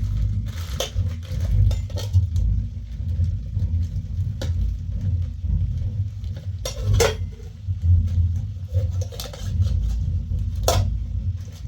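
A steady low rumble with a few sharp clinks and knocks scattered through it, the loudest two near the middle and near the end.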